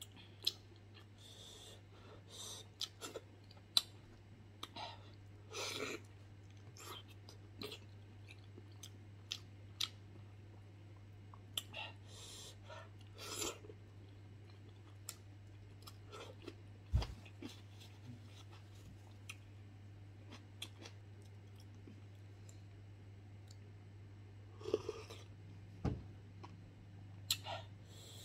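Close-miked chewing and lip smacking of a man eating soft, gelatinous beef-foot skin with his hands, in scattered short wet clicks and smacks. A steady low hum runs underneath.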